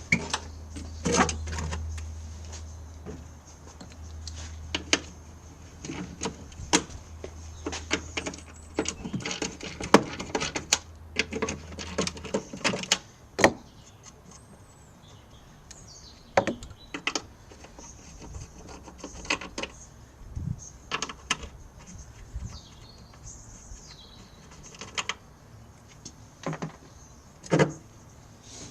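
Irregular clicks and knocks of hardware being handled, denser in the first half, over a low hum that cuts off about twelve seconds in.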